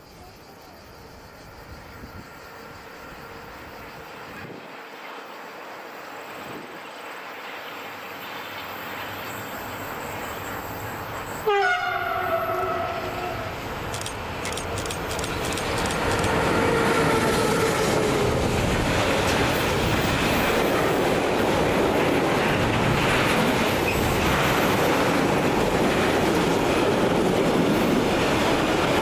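A train approaching and growing steadily louder, sounding its horn in a sudden blast about twelve seconds in, then a longer held note a few seconds later, before passing close with loud steady wheel-on-rail rumble and clatter.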